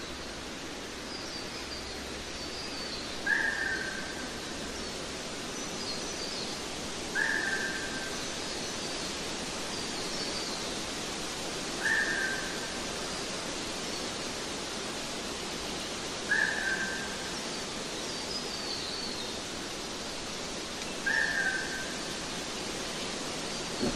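Nature-ambience recording: a bird gives a short, slightly falling whistled call about every four to five seconds, with fainter, higher chirps in between, over a steady hiss of background noise.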